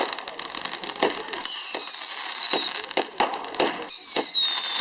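Fireworks going off: two whistles, each falling in pitch over about a second, among sharp pops and bangs.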